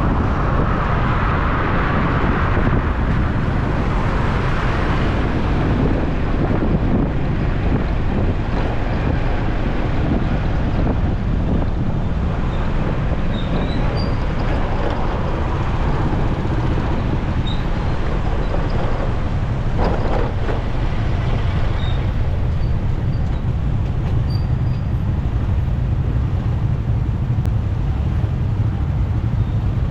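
Steady road and traffic noise from riding a motorcycle through busy city traffic: engines of surrounding cars, buses and trucks over a heavy low rumble of wind on the microphone.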